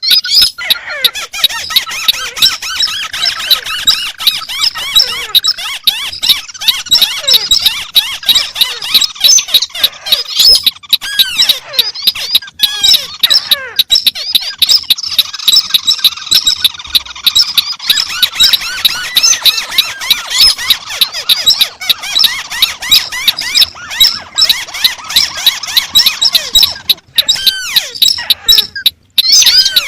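Recorded calls of several crakes, including the white-browed crake, playing over one another as a dense, continuous chatter of quick, squeaky, up-and-down notes with no common rhythm.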